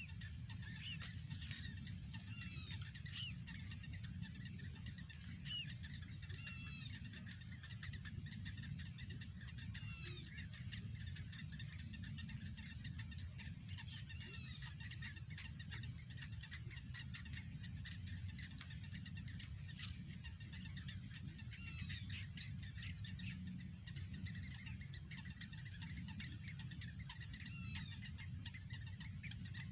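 Small birds chirping, short quick calls scattered all through, over a steady low rumble and a faint steady high-pitched hum.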